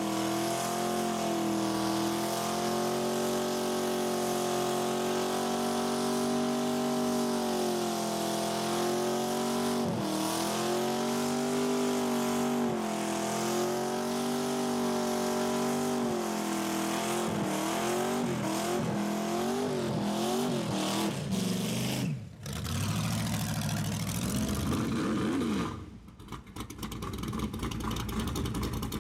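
Car engine held at high revs for a long, steady stretch, then revved up and down in quick blips. It cuts off abruptly about two-thirds of the way in, followed by a rougher, lower engine rumble and more revving near the end.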